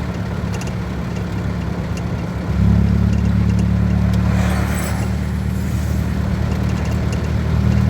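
Steady low hum of a vehicle's engine and road noise while driving, getting louder about two and a half seconds in. There is a brief rushing noise a little past halfway.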